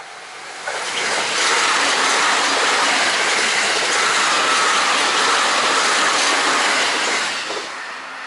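Electric commuter train passing at high speed: a loud rush of wheel and air noise that swells in quickly about a second in, holds steady for about six seconds as the cars go by, then fades away.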